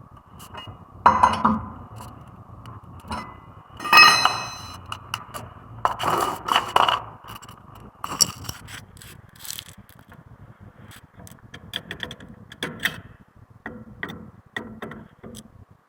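Metal hand tools and brake parts clinking and scraping at irregular intervals during front brake pad replacement, with one loud ringing metal strike about four seconds in.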